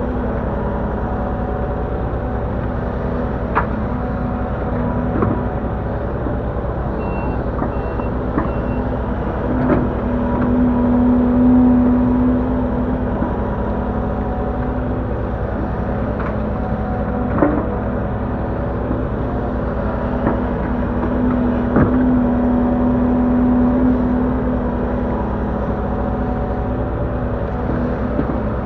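Link-Belt 145X3E hydraulic excavator running steadily, with a hum that swells twice as the hydraulics take load and sharp knocks now and then as it works. Three short high beeps sound about a quarter of the way in.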